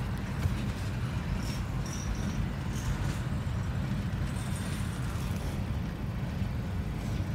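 Freight train of covered hoppers and tank cars rolling past, a steady low rumble heard muffled from inside a car.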